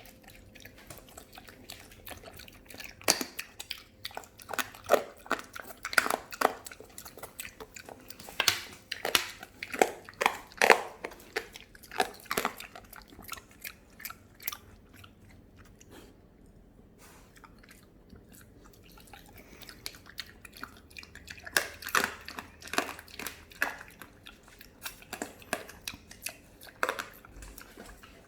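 A pet pig chewing with its mouth open, irregular wet clicks and crunches in two bouts with a quieter pause in the middle.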